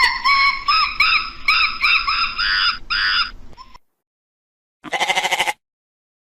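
A rapid run of high, chirping animal calls with a few sharp clicks, stopping nearly four seconds in. After a pause comes one short, quavering bleat-like call.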